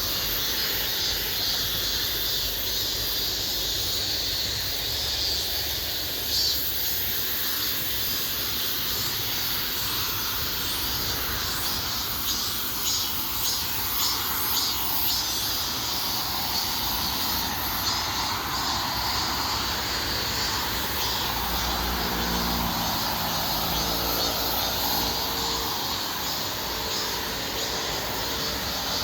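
Chorus of cicadas and crickets shrilling steadily in high, pulsing tones. Under it, a low engine drone swells through the middle, like a distant passing aircraft, and about three quarters of the way in it settles into a few steady low hum tones.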